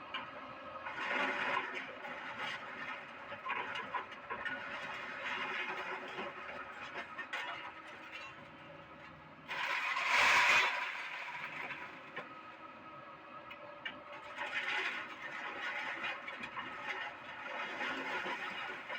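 Doosan excavator running while it moves scrap iron, with metal scraping and clattering against metal throughout. There is a louder burst of noise just past halfway.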